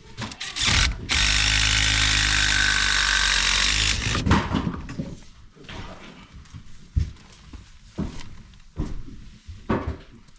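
Power drill running at a steady speed for about three seconds, starting about a second in, followed by scattered knocks and clicks of hand work.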